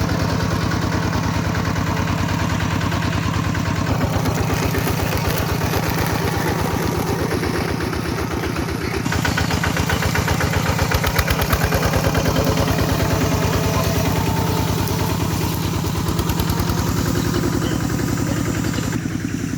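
Kubota tractor's diesel engine running steadily, its note shifting about nine seconds in.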